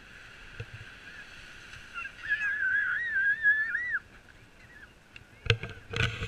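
A young child's high-pitched, wavering squeal lasting about two seconds. Near the end come a few sharp knocks.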